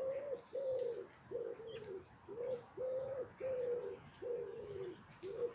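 A pigeon or dove cooing: about eight low notes, one after another at a steady pace of roughly one note every 0.7 seconds. Faint small-bird chirps sound behind it.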